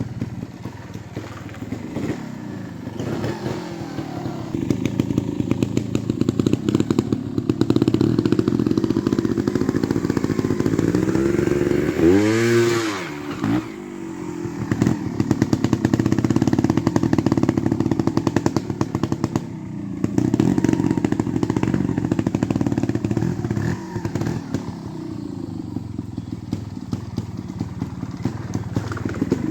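Beta Evo trials motorcycle engine running at low revs with choppy throttle work. About twelve seconds in it gives one sharp rev that rises and falls, and it briefly drops off again later.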